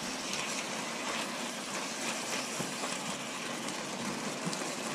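Moose meat and sliced onion frying in hot corn oil in a wok, a steady sizzle with a few faint clicks of the spatula as they are stirred.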